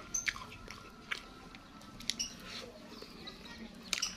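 A person chewing a mouthful of rice with open-mouthed smacking, a handful of sharp wet clicks scattered through.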